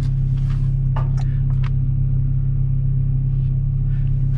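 Steady low hum of a car's engine heard inside the cabin, with a few faint short clicks about a second in.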